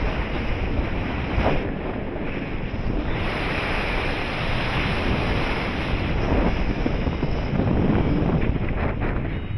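Wind rushing and buffeting over the camera microphone as the paraglider flies, a loud, steady roar of air.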